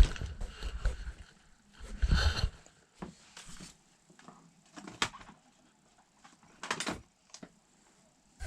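Handling noises from objects being set down and moved: a heavier thump about two seconds in, a few sharp clicks and knocks, and a short scrape near the end, separated by quiet gaps.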